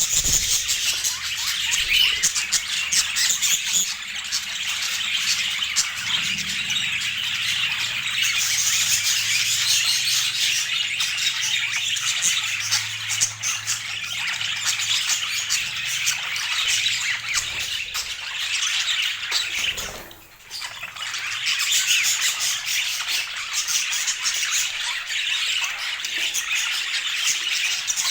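Budgerigars chattering and squawking in a continuous, dense stream of high chirps, with a brief lull about twenty seconds in.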